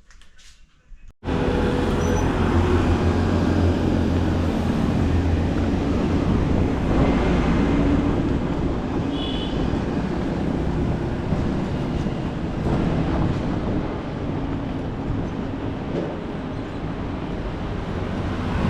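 Steady rush of wind buffeting the microphone and road noise during a bicycle ride, starting abruptly about a second in.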